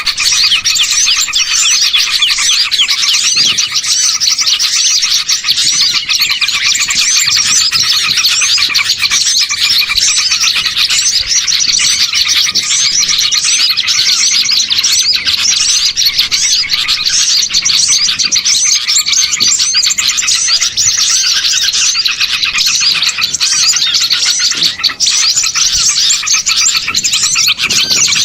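Dense, unbroken chorus of many small songbirds chirping and twittering at once: a bird-lure recording of small birds calling noisily together, used to draw wild birds in.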